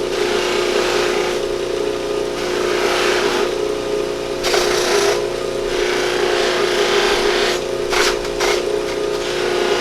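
A buffer motor turning a spiral-sewn cloth wheel at 1750 RPM hums steadily while raw deer antler is pressed against the wheel, which is charged with brown Tripoli compound. The rubbing noise swells and fades in short spurts, with a couple of quick sharp scrapes near the end.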